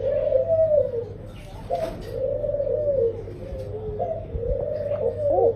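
Laughing dove cooing in three low, rolling phrases, each a couple of seconds long.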